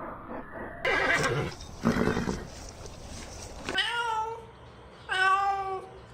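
An equid whinnying: two harsh, noisy calls, then two longer pitched calls that fall in pitch.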